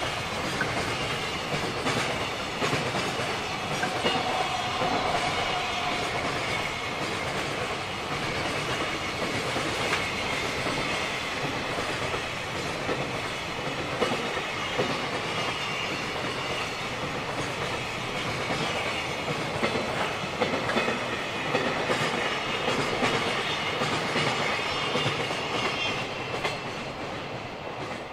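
Freight wagons of a long container train rolling past close by: a steady rumble with wheels clacking over rail joints and thin high whining tones. The sound fades near the end.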